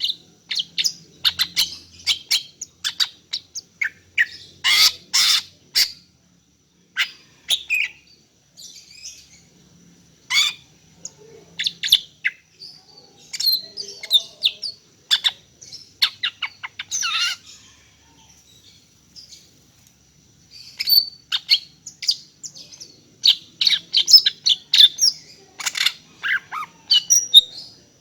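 Female greater green leafbird (cucak ijo) calling: quick clusters of short, sharp chirps and twittering notes, with a brief lull about two-thirds of the way through.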